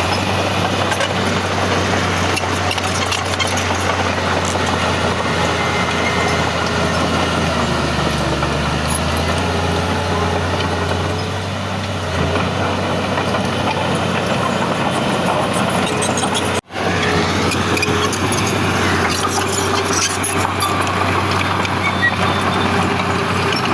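Heavy diesel earthmoving machinery running steadily, with an engine hum under a dense mechanical din. The sound drops out for an instant about two-thirds of the way through.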